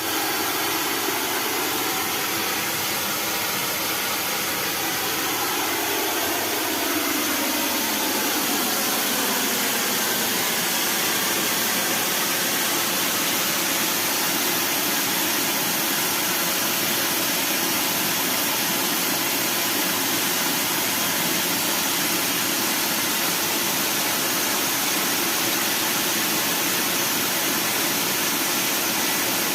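Excavator engine running with a loud, even hiss. Over the first several seconds a few tones glide up and down as the engine speed shifts, then it settles into a steady drone.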